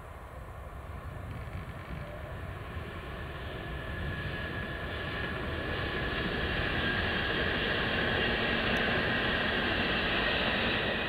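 Double-deck Intercity train hauled by a DB class 146 electric locomotive passing, its wheel and rail noise growing steadily louder and loudest near the end before it fades off.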